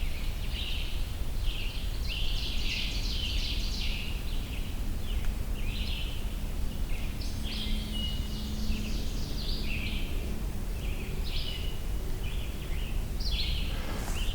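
Several songbirds singing at once in woodland, short overlapping phrases one after another, with a scarlet tanager's hoarse, sore-throated song among them. A steady low background rumble runs underneath.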